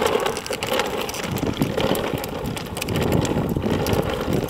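Ride-on toy dump truck rolling along a sidewalk: its wheels rumble over the pavement, with scattered clicks and rattles.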